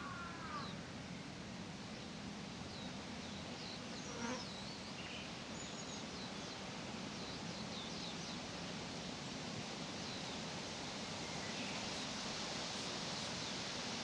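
Outdoor park ambience: a steady hiss with insect buzzing, and a few short bird chirps over the first several seconds.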